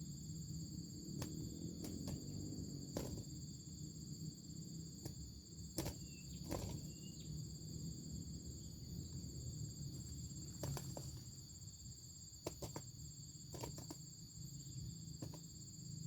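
Steady high-pitched drone of insects, such as crickets or cicadas, over a low background rumble, with scattered short clicks and knocks.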